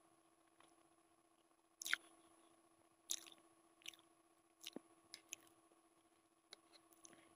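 A person chewing Maggi instant noodles, with soft wet mouth sounds and a string of short, sharp smacks and clicks, the strongest about two seconds in. A faint steady hum runs underneath.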